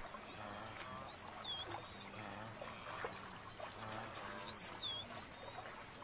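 Wild riverside ambience: a bird gives the same short, high, whistled call twice, a few seconds apart, over faint low animal calls.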